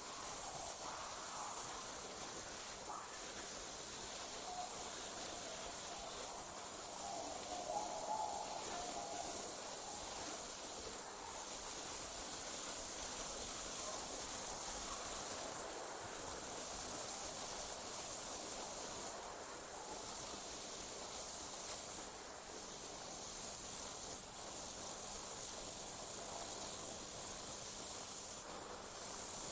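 Night insects, crickets, trilling in a steady high-pitched drone that breaks off briefly every few seconds, over a faint background hiss.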